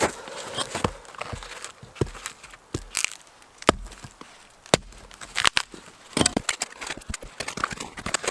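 Wood being broken and handled: irregular sharp cracks and knocks, some close together, with crackling between them.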